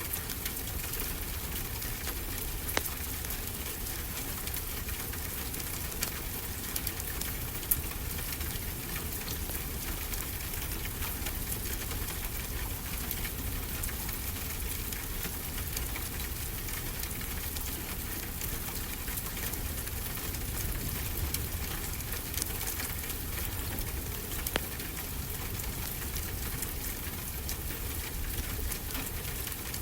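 Steady rain falling, with a wood fire crackling: sharp pops scattered through the rain's even hiss, a few of them louder.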